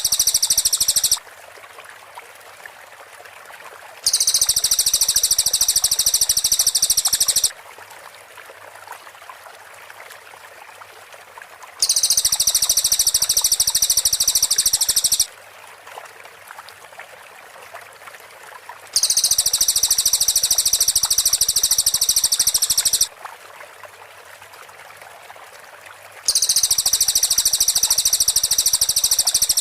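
Cililin bird song in repeated bursts of a loud, very high, rapid trill of tightly packed shot-like notes, each lasting three to four seconds and separated by a few seconds of quieter background hiss; five bursts in all.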